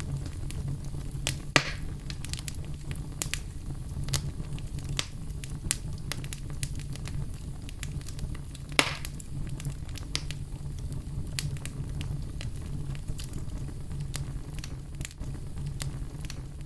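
Fire burning in a fireplace: a steady low rumble with frequent small crackles. Two louder pops stand out, one about a second and a half in and one near the middle.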